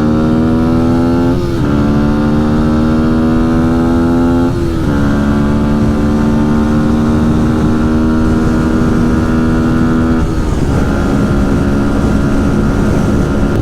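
Dirt bike engine pulling through the gears while riding. Its pitch climbs, then drops at an upshift about a second and a half in and again near five seconds. It then holds steady at cruising speed until it changes again about ten seconds in.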